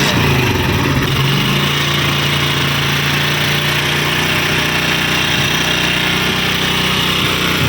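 Honda CD 70's single-cylinder four-stroke engine idling steadily with a noisy mechanical rattle from inside the engine, the sound of a worn timing chain.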